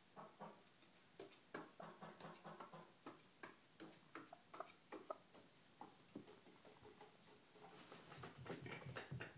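Bantam chicken making soft, weird little clucking and clicking noises, several a second, in a stop-start string. Near the end they run together into a lower, faster run.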